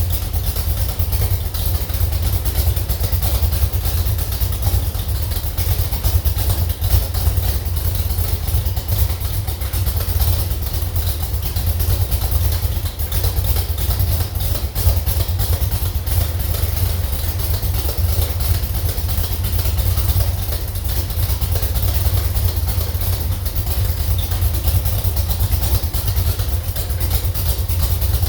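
Slover 305 engine running steadily on a test stand at an even, idle-like speed, with no revving.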